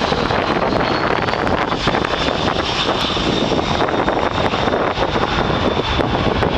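Boeing C-17 Globemaster III's four turbofan jet engines during landing: a loud, steady rush with a faint high whine that drops slightly in pitch.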